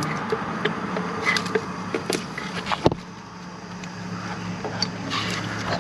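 Scattered metallic clicks and knocks from a 3/8 ratchet with a 14 mm socket and extension snugging up a starter mounting bolt, with a sharper knock about three seconds in. A steady low hum runs underneath.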